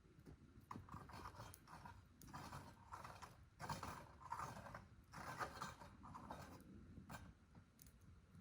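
Faint, irregular scraping and rustling noises, a fraction of a second each, in an otherwise quiet setting.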